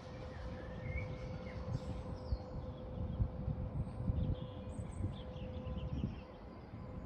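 Small birds chirping and calling in short scattered notes over a steady low rumble and a faint steady hum.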